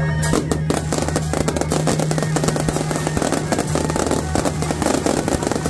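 Fireworks display crackling: a dense run of rapid pops and crackles starting about a third of a second in, over steady background music.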